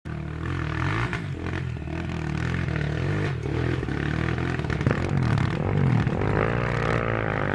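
Rally motorcycle engines running and revving, their pitch rising and falling, over rough clattering noise.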